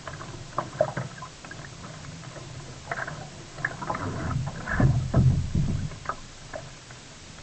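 Kayak paddling on the sea: the paddle blades dipping and splashing with drips of water, loudest in a run of strokes about four to six seconds in.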